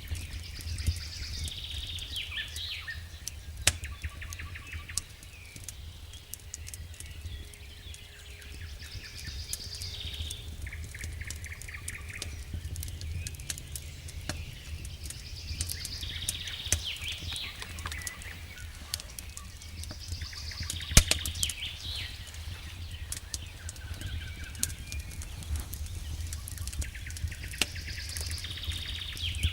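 Wood fire in a fireplace crackling with scattered sharp pops over a low rumble, one pop louder than the rest about two-thirds of the way through. Small birds chirp and trill every few seconds.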